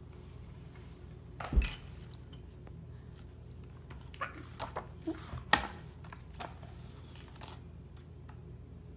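Objects being handled and set down: one louder knock about a second and a half in, then a scatter of lighter clicks and clinks.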